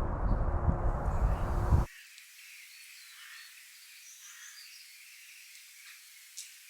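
A loud low rumbling noise that cuts off abruptly about two seconds in, leaving faint outdoor ambience with small birds chirping and a single sharp click near the end.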